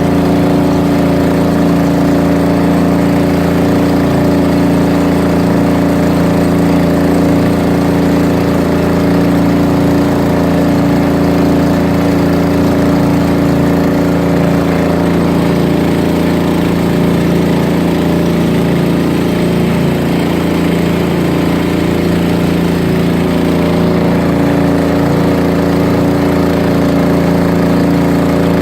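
A fishing boat's engine running steadily at a constant speed, a loud even hum with no change in pitch.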